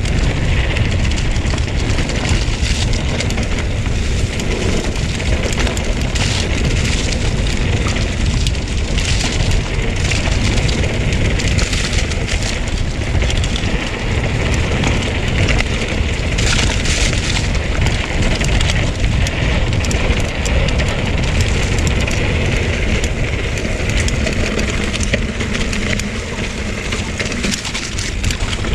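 Mountain bike riding fast down a loose dirt trail: wind buffeting the microphone, with tyres crunching and the bike rattling over the rough ground.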